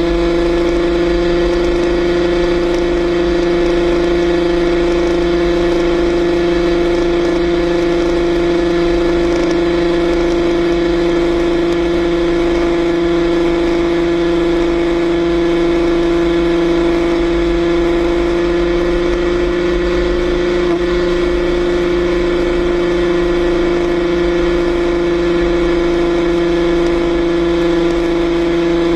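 Yamaha RXZ's two-stroke single-cylinder engine held at high revs at steady highway speed, one unchanging engine note throughout, with wind buffeting the microphone underneath.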